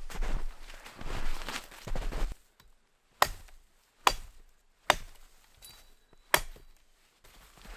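Firewood being cut: a few rasping strokes through a log, then four sharp chopping strikes into the wood, the last after a longer pause.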